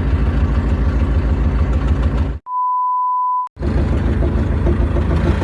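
Vehicle engine running while driving. About two and a half seconds in, the engine sound cuts out and a single steady high beep plays for about a second, then the engine sound returns.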